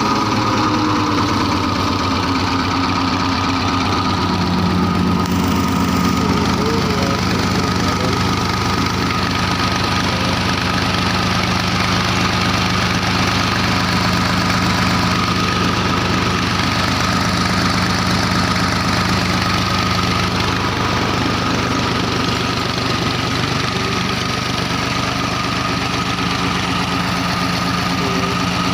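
Ghazi tractor's diesel engine running steadily at an even speed, driving a tube-well bore pump.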